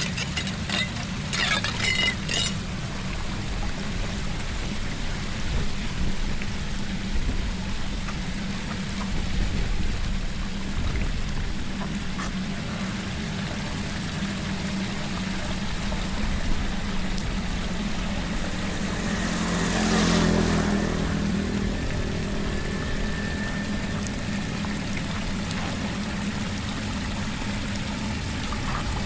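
Floodwater pouring steadily down an unblocked storm drain, with a swell of louder rushing about twenty seconds in. A few sharp scrapes come in the first couple of seconds.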